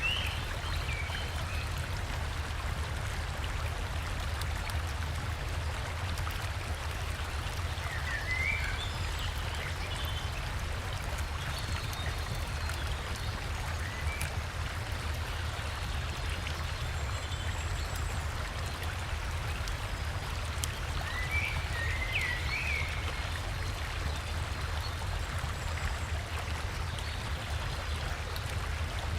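River and small waterfall flowing steadily, with a low rumble under the rush of water. A forest bird chirps briefly a few times over it: at the start, about eight seconds in, and again around twenty-two seconds.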